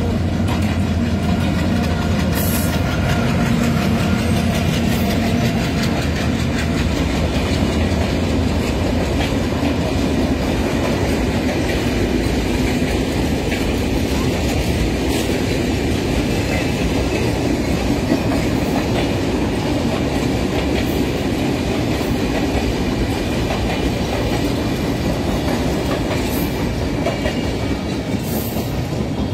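Train passing close by: a steady, loud rumble of carriages and wheels running on the rails.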